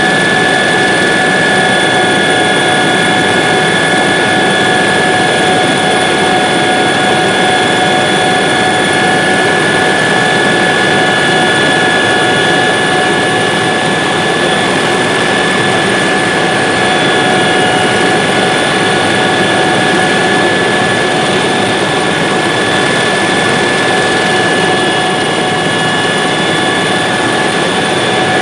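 Helicopter engine and rotor noise heard from inside the cabin, loud and steady, with a high turbine-like whine over it.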